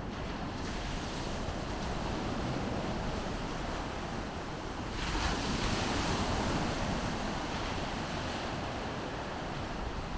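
Baltic Sea surf: waves breaking and washing up the beach in a steady wash, with a louder wave rushing in about five seconds in. Wind rumbles on the microphone.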